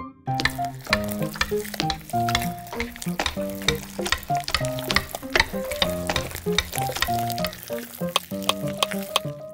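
Food sizzling in hot fat or syrup, a dense hiss full of crackles, which cuts off suddenly near the end. Light background music with a plucked melody plays underneath.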